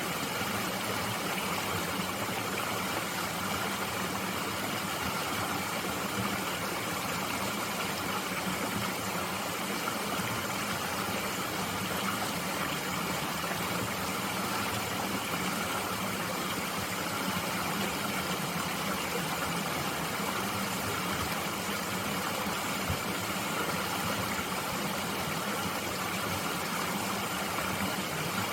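A mountain stream flowing steadily.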